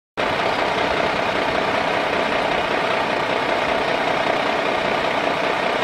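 Truck engine idling steadily, cutting in abruptly at the start.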